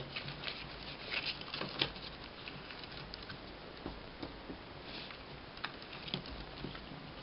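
Sheet of paper rustling and crinkling as it is handled and refolded, with light scattered taps of fingers on paper.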